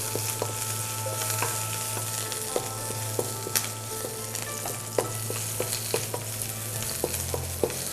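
Onions and garlic sizzling in hot oil as they are stir-fried, with the utensil clicking and scraping against the pan every so often. A steady low hum runs underneath and drops in pitch near the end.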